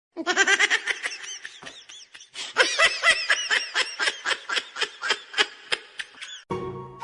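Someone laughing hard in quick, high-pitched bursts, about four or five a second, breaking off suddenly near the end.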